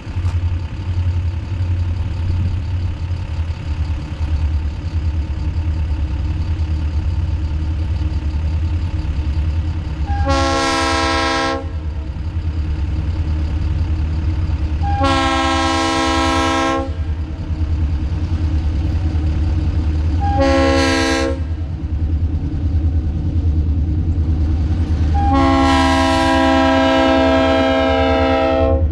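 Locomotive air horn sounding the grade-crossing signal: two long blasts, a short one and a final long one, over the steady low rumble of the train. The horn is a chord of several notes.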